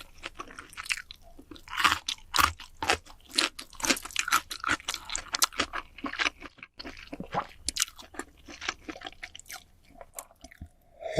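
Close-miked chewing of crunchy food: a fast run of crisp crunches that thins out near the end.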